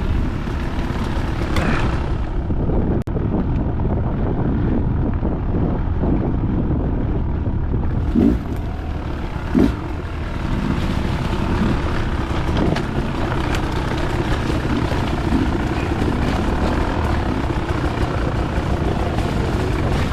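Dirt bike engine running steadily while riding a trail, with two brief louder bursts near the middle.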